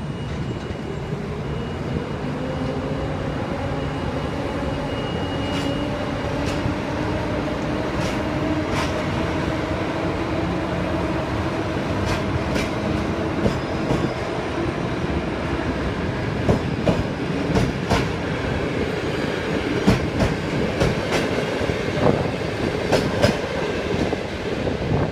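Intercity passenger train hauled by an electric locomotive pulling out, with a whine that rises in pitch over the first ten seconds or so as it gathers speed. The coaches then roll past with wheel clicks and knocks over the rail joints, coming quicker and sharper in the second half.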